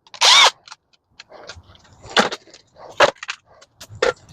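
A short, loud metallic screech right at the start. Then scattered clinks and rattles of loose screws and small metal parts being handled while a microwave is stripped for scrap.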